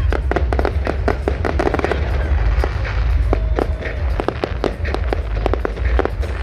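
Firework display going off: a dense, irregular run of sharp cracks and bangs, several a second, over a steady low rumble.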